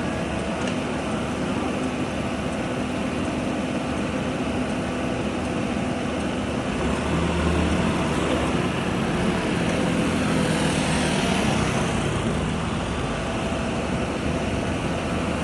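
Mini excavator engine running steadily while it works, growing louder for a few seconds in the middle.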